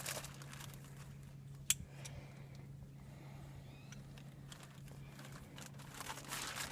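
Faint rustling and crinkling of a shop-vac dust bag being handled, with one sharp click about two seconds in and more crinkling near the end. A low steady hum runs underneath.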